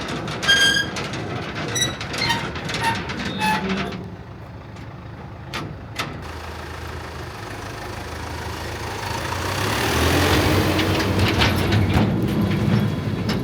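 Heavy vehicle engine running and growing louder from about eight seconds in, its pitch slowly rising. A few short high tones and clicks come in the first few seconds.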